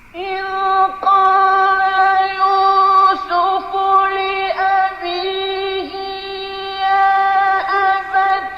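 A single high voice chanting melodically. It holds long, steady notes, each broken by a short dip in pitch before the next one.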